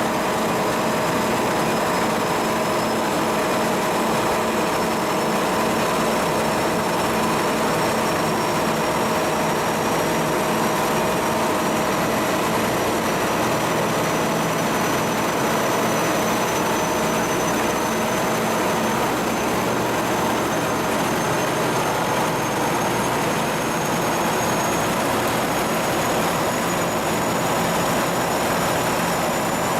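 A cargo ship's diesel machinery running steadily during a sea trial: a dense mechanical drone with a high whine that slowly rises in pitch over the half minute.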